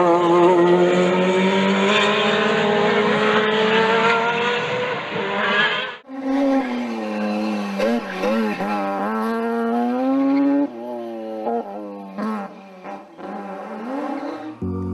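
Mazda rotary-engined race car at high revs, in two recordings. The first is one long, shrill, slowly rising note. After a sudden cut about six seconds in, the second has revs repeatedly dropping and climbing again, as through gear changes and corners.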